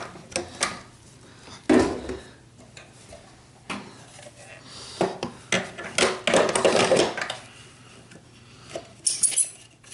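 Knocks, clunks and clatter of Kirby Heritage II vacuum parts being handled, detached and refitted while the machine is converted to its stair vac mode. There are several separate knocks with a busier run of clatter near the middle.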